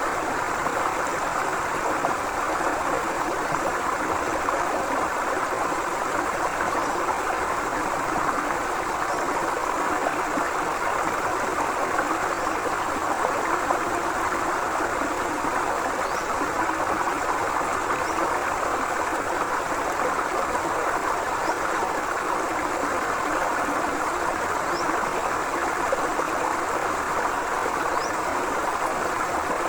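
Forest river flowing: a steady, even rush of water. A few faint high chirps come through now and then.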